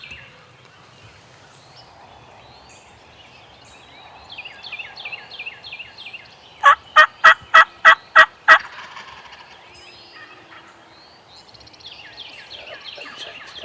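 Wild turkey calling: a loud run of seven evenly spaced yelps, about four a second, near the middle. Before and after it, quieter rattling gobbles from a distant tom answer.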